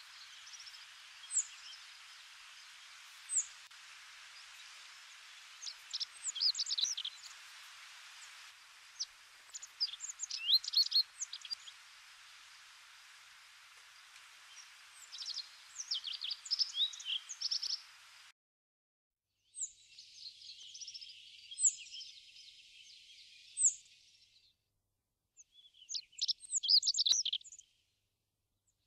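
Songbirds chirping and singing: single high chirps at first, then quick clusters of notes every few seconds over a steady hiss. The sound cuts out abruptly for about a second twice in the second half.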